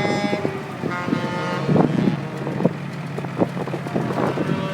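Vehicle horns sounding in short blasts, at the start, about a second in and near the end, over a steady engine rumble, with a few sharp knocks in between.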